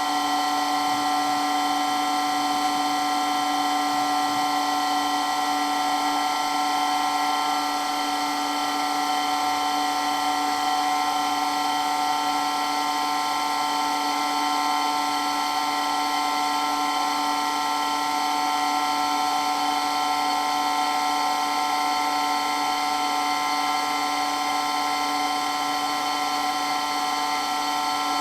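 Water pump running steadily and loudly, with an even, unchanging whine made of several steady pitches over a motor hum.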